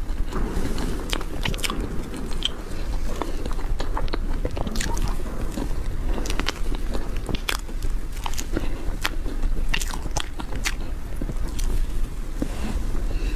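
Close-miked mouth sounds of a person chewing soft cream cake, with many small wet clicks and smacks, over a steady low hum.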